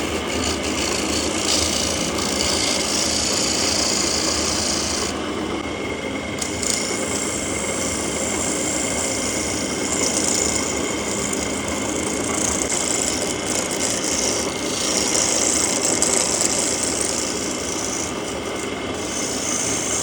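Wood being worked with an abrasive tool: a continuous rough rasping that changes in tone every few seconds.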